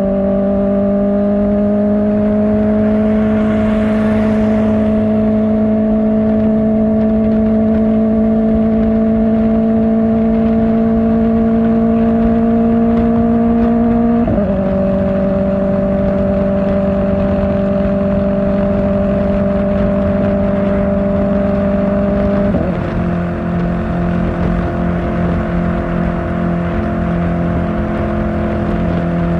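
Kawasaki Ninja ZX-4R's inline-four engine through an Akrapovic exhaust, running at steady high revs under way, its pitch creeping slowly upward. Twice, about halfway through and again near three-quarters, the pitch steps down abruptly as the rider shifts up a gear.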